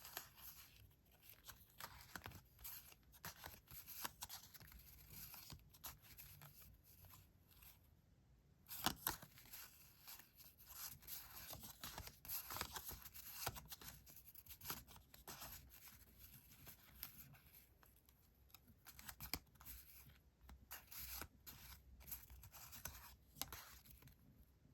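Quiet, close-up crisp rustling and scraping of paper being handled, with scattered small clicks and taps. A sharper tap about nine seconds in is the loudest.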